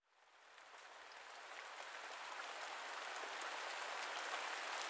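Rain falling, a steady hiss with scattered faint drop taps, fading in from silence about half a second in and growing louder throughout.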